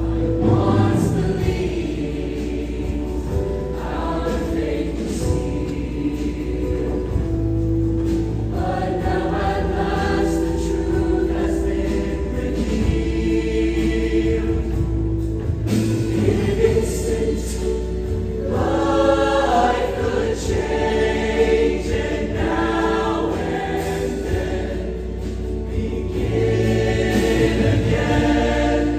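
Show choir singing in harmony over instrumental accompaniment with a steady bass line.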